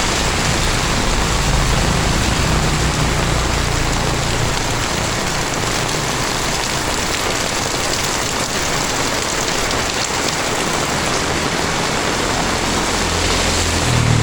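Heavy tropical rain falling steadily, a dense even hiss of rain on the ground and surfaces. A low engine hum from a vehicle sits under it for the first few seconds and comes back near the end.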